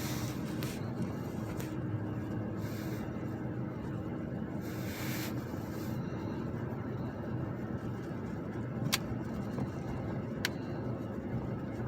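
Steady low rumble of a car, with two sharp clicks in the second half, about a second and a half apart.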